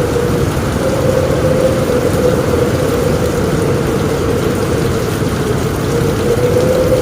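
Steady rain on a roof in a storm, with a low rumble and a wavering mid-pitched hum running underneath.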